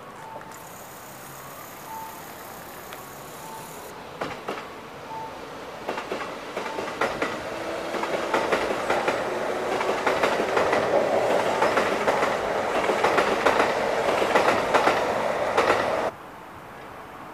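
Kintetsu limited express electric train running past on the near platform track, its wheels clattering over the rail joints with a low motor tone underneath. The sound builds over several seconds and cuts off suddenly near the end. A short beep repeats about every second and a half.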